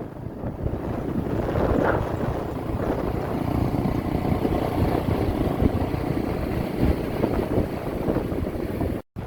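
Wind buffeting the microphone during a motorbike ride, a steady low rumble with the bike and traffic underneath. It breaks off briefly near the end.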